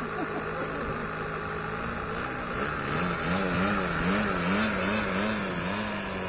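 OS 55 nitro glow engine of an RC plane running steadily. About halfway in, its pitch starts to waver up and down in an even cycle, about twice a second, and it gets a little louder.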